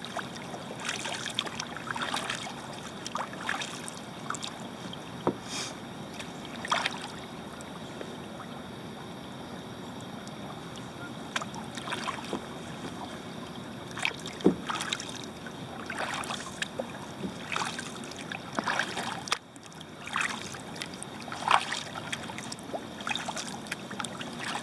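Kayak paddle blades dipping and splashing in flat water, a stroke every second or two, with a lull of a few seconds partway through.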